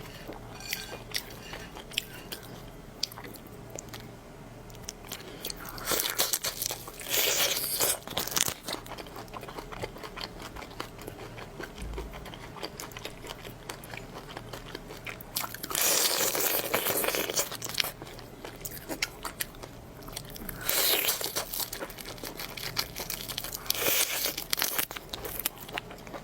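Close-miked eating of seafood: a person bites and chews crunchy food, with four louder spells of crunching between quieter wet chewing clicks.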